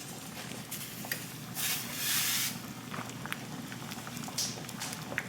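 Pot of potatoes boiling on the stove: steady bubbling with a hiss that swells for about a second around two seconds in, and a few faint clicks.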